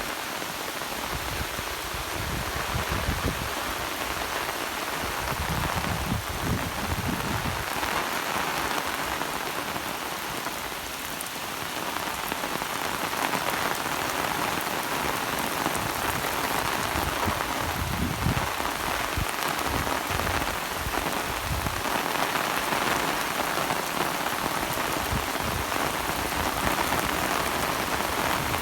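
Steady rain falling, a dense even hiss of drops, with a low rumble that swells and fades now and then.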